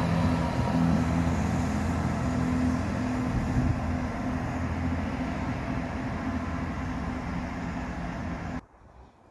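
Diesel multiple unit pulling away down the line: its engine drone and wheel noise fade steadily as it recedes, then cut off suddenly near the end.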